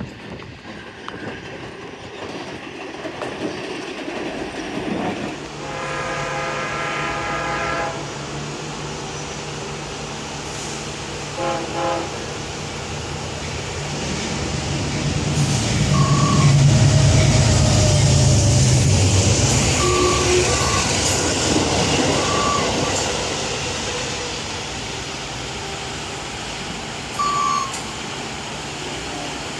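Amtrak passenger train approaching and sounding its multi-note horn for about two seconds, then two short blasts. It passes loudest a few seconds later, rumbling by, then fades away.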